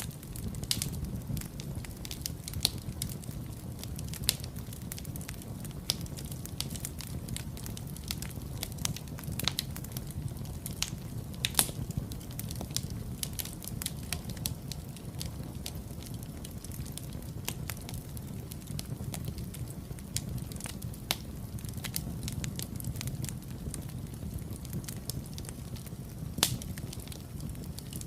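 Wood fire burning in a fireplace, crackling with irregular sharp pops over a steady low rumble of the flames; a couple of louder pops come near the middle and near the end.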